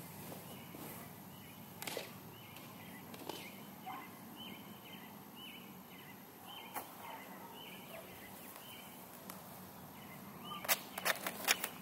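A bird repeating one short high note over and over, about two to three times a second. A few soft knocks come through it, and near the end a quick run of sharp clicks is the loudest sound.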